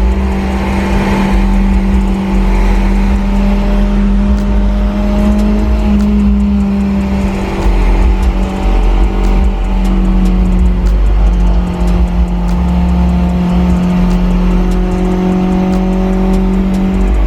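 Supercharged Honda S2000's four-cylinder engine through a 3-inch HKS exhaust, heard from inside the cabin while cruising at a steady engine speed with a deep tone. The pitch drops slightly about ten seconds in and then holds steady again.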